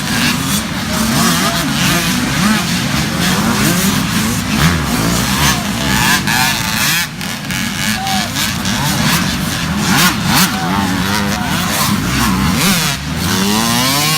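Several small youth dirt bikes racing, their engines revving up and down over and over with overlapping rising and falling whines.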